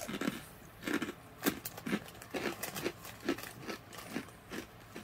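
A person chewing a crunchy snack with mouth near the microphone, a steady run of crunches about two to three a second.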